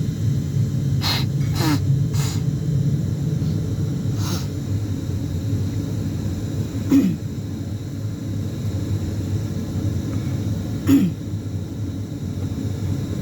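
Steady low drone of an ATR 72-600's turboprop engines heard inside the cabin during engine startup. A few short sharp noises cut across it; the two loudest come about seven and eleven seconds in.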